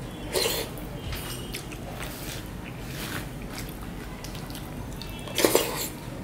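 Close-up eating sounds of rice and vegetable curry eaten by hand: wet chewing and mouth sounds, with fingers squishing rice on a banana leaf. Two louder wet sounds stand out, about half a second in and near the end.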